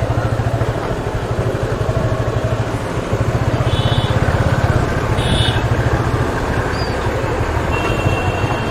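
Motorcycle engine running steadily under way, picked up by a helmet-mounted action camera. Two short high tones sound about four and five seconds in.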